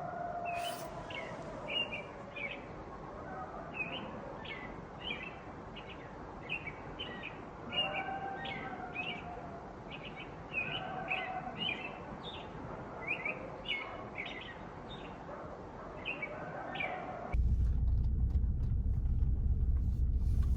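Small birds chirping over and over above a steady rush of water from a rain-swollen creek. About seventeen seconds in, it cuts abruptly to the low, steady hum of a vehicle running.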